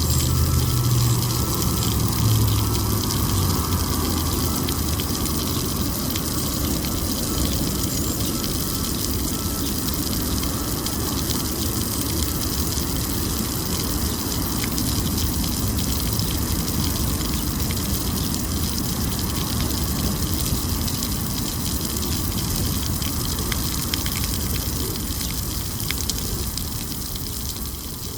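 A steady, loud rushing noise, with a low rumble that fades away over the first few seconds.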